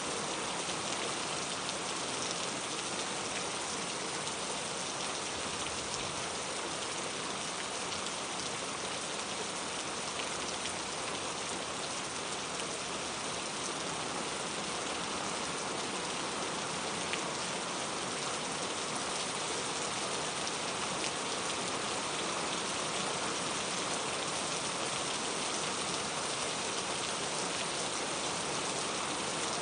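Steady rain falling, an even hiss with fine scattered drop ticks, holding constant throughout.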